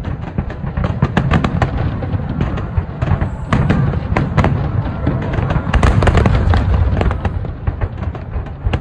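Aerial fireworks shells bursting in quick succession: deep rumbling booms overlapping with a dense run of sharp crackling pops.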